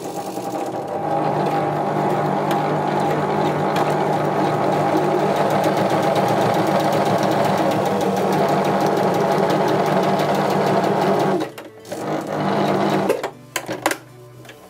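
Electric sewing machine stitching a zipper in straight stitch: it speeds up over the first second, runs steadily for about ten seconds and stops, then makes one short run and a few brief stitches near the end.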